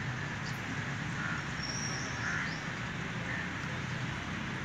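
Steady outdoor background noise with a low hum, and faint, short chirps of small birds now and then.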